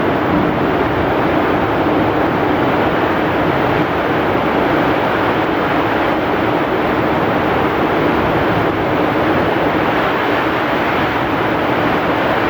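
Heavy rain pouring with strong wind, a dense, steady hiss that does not let up.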